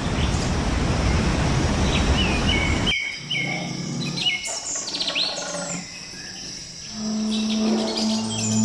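A steady rushing hiss that cuts off abruptly about three seconds in, giving way to wild birds chirping with short calls and quick falling whistles. A steady low music drone comes in near the end.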